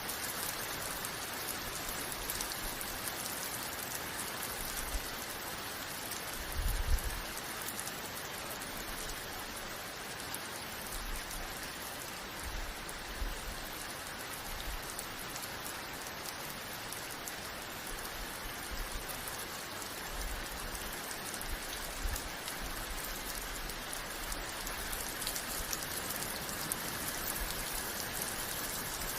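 Steady rain falling and pattering on surfaces, with brief low rumbles now and then, the strongest about seven seconds in.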